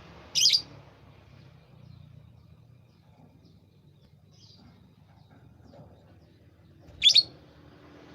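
A bird giving two short, sharp, high chirps, one about half a second in and one about seven seconds in, with a faint call between them, over a low steady background rumble.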